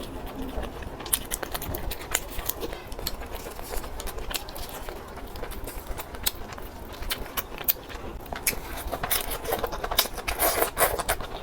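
Close-up crunching of crispy deep-fried fish maw being chewed, a quick irregular run of sharp crackles that gets denser near the end.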